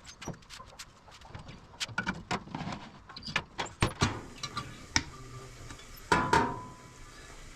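Kitchen handling noises: a string of clicks and knocks, then a louder metallic clank about six seconds in that rings briefly.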